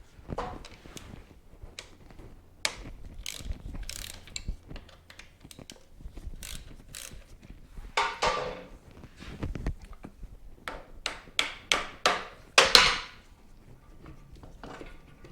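Ratchet wrench clicking in short runs, with irregular metal clinks and knocks from tools and parts. A quicker run of clicks comes near the end, the loudest of them about two-thirds of the way through.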